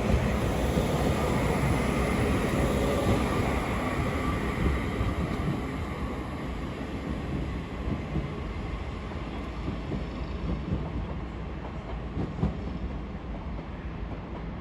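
Northern Class 331 electric multiple unit pulling away, its running noise fading steadily as it leaves.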